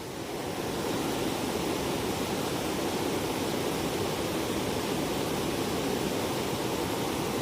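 Heavy rain falling: a steady rushing hiss that builds over the first second, then holds even.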